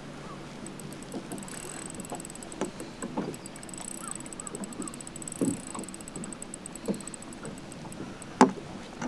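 Water lapping and knocking against a bass boat's hull, with irregular thumps, the loudest about five and a half and eight and a half seconds in, and a fast faint high ticking in the middle stretch.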